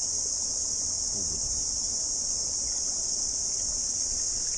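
Chorus of cicadas: a steady, high-pitched buzzing drone that runs without a break.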